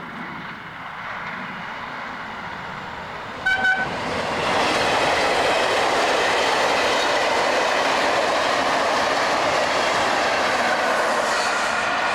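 A train sounds its horn in two short blasts about three and a half seconds in, then passes close by with a loud, steady rush of wheels on rails.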